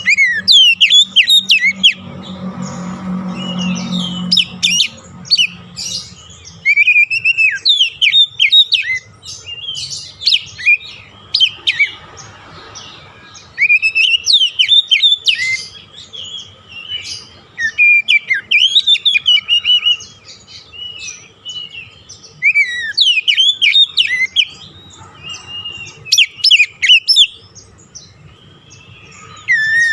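Oriental magpie-robin (kacer) singing loud, rapid phrases of varied sweeping chirps and whistles, with short pauses between the phrases. A faint low hum runs underneath.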